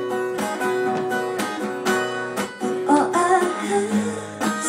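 Acoustic guitar strummed in a steady rhythm, with a woman's singing voice coming in about three seconds in.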